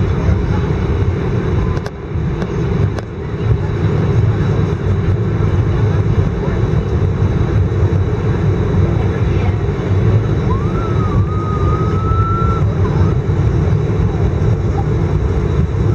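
Steady low rumble of an Airbus A319's cabin on the ground after landing, from its engines and air system. A short whistle-like tone rises and holds for about two seconds, some ten seconds in.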